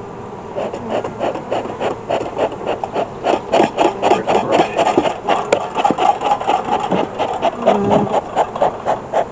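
Beekeeper's smoker bellows pumped quickly, about four squeaky, rasping puffs a second, to revive a smoker that is going out.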